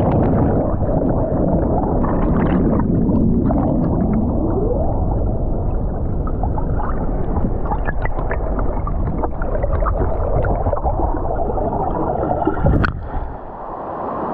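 Steady roar of a large waterfall's cascading water, heavy in the low end. A sharp click comes near the end, after which the roar is quieter.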